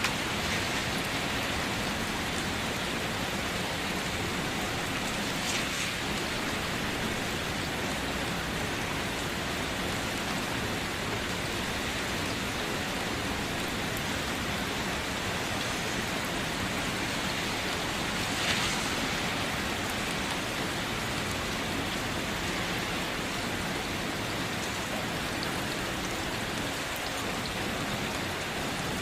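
Steady rain falling and pattering on surfaces, with a couple of louder drips or splashes, one about five seconds in and one about two-thirds of the way through.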